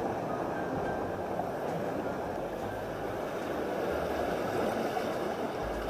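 Steady wash of ocean surf breaking on a rocky shore reef.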